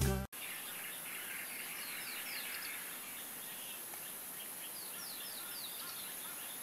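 Birds chirping over a steady outdoor background hiss: short, falling chirps in quick runs, one group about two seconds in and another about five seconds in.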